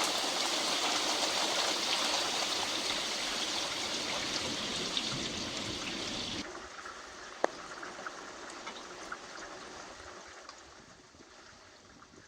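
Heavy rain falling in a steady hiss. About six seconds in it suddenly drops to a much quieter patter with a few clicks, one of them sharp, and then fades.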